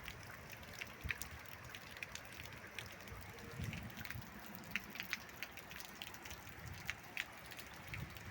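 Rain falling during a storm, a steady faint hiss with scattered drops ticking sharply on a surface, and a brief low rumble about three and a half seconds in.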